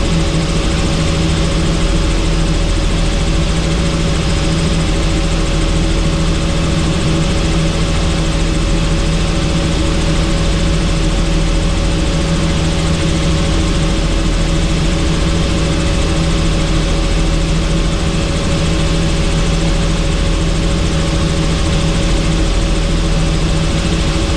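Helicopter in steady cruising flight: a constant drone of engine and rotor noise with a few steady hum tones, unchanging throughout.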